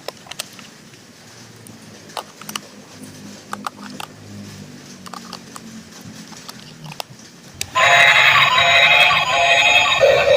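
Small clicks and knocks of toys being handled, then, near the end, a battery-operated toy suddenly starts playing its loud electronic sound or tune.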